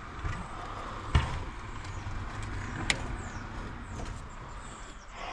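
Parts and tools being handled during an engine-bay teardown: a heavy thump about a second in and a sharp click about three seconds in.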